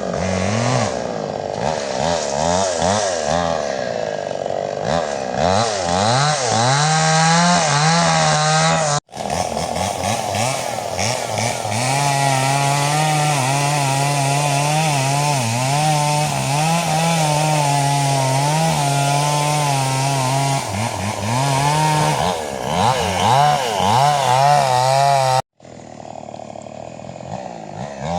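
A two-stroke chainsaw running while cutting wood during tree felling, its engine pitch rising and falling as the throttle is worked and the chain bites. The sound breaks off briefly about nine seconds in and again near the end, where it comes back quieter.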